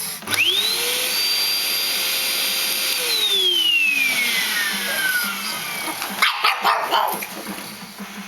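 Vacuum cleaner motor switched on, whining up to speed, running steadily for a few seconds, then switched off and winding down with a falling whine. A pug then barks several times in quick succession near the end.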